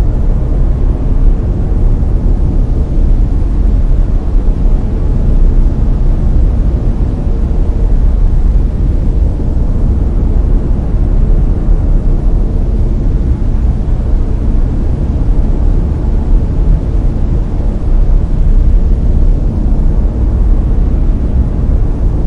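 Layered brown noise: a steady, deep rumbling hiss, strongest in the bass and falling off toward the treble, with a slight slow waver in loudness.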